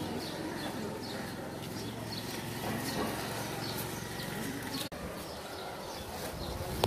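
Small birds chirping over and over, short high chirps, against a low, steady background hum.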